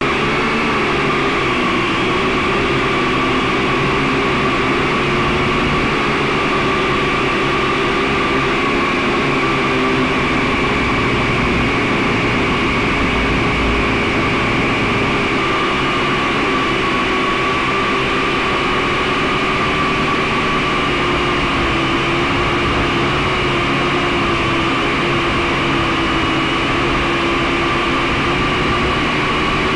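Camera drone's propellers running with a steady, unchanging whine.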